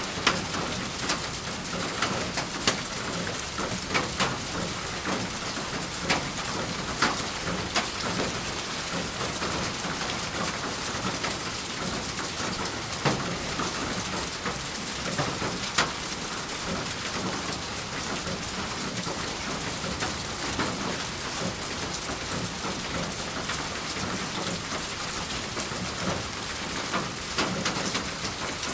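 Steady rain falling on a surface, an even hiss with individual heavier drops striking here and there.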